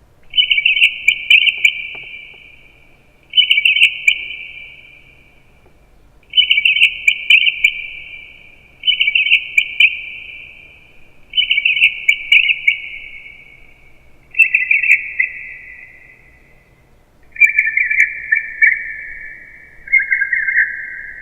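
A run of eight bird-like chirping trills, one about every two and a half seconds, each starting sharply and fading away, each pitched a little lower than the one before. It is a recording of human speech artificially altered until it sounds like birdsong.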